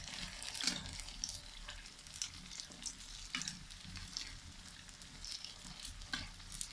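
Battered eggplant slices sizzling and crackling in hot oil in a metal pan, with a metal spatula moving them about in the oil.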